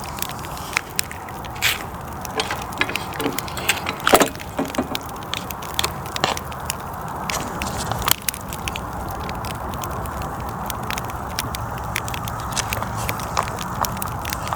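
Wood campfire crackling, with irregular sharp pops over a steady low background, thinning out in the second half.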